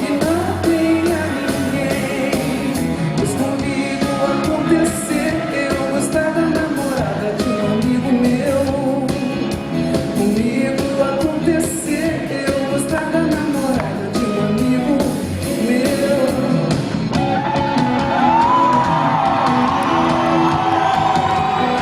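Live pop band music with a steady beat, played in a large hall between sung verses. Gliding melodic lines come in over the last few seconds.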